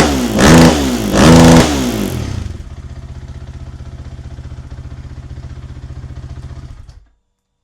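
2017 Husqvarna 501 FE's single-cylinder four-stroke engine, breathing through an FMF 4.1 titanium exhaust, blipped three times in quick succession and then settling to a steady, pulsing idle. The sound cuts off suddenly about seven seconds in.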